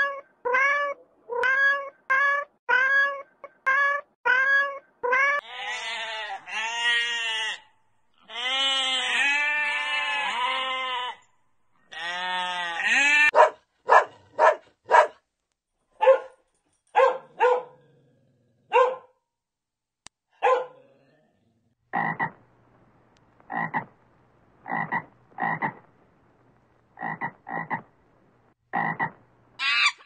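A run of animal calls: short pitched calls repeated about twice a second, then longer drawn-out rising-and-falling calls, then chihuahua puppies yipping in short, spaced bursts, and more short calls near the end.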